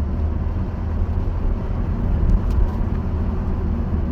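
Car driving, heard from inside the cabin: a steady low rumble of engine and road noise, with a couple of faint ticks about two and a half seconds in.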